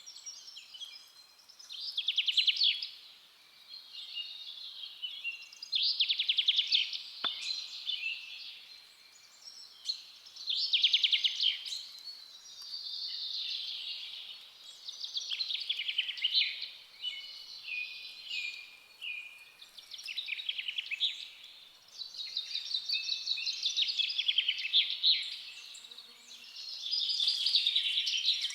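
Forest songbirds singing: a string of rapid trilled phrases, each a second or two long, coming every few seconds. A single brief click sounds about seven seconds in.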